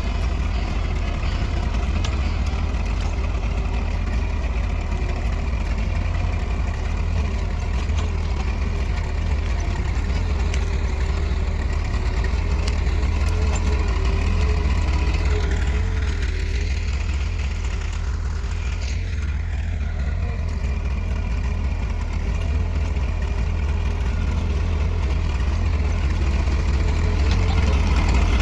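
Farm tractor's diesel engine running steadily, getting a little louder near the end.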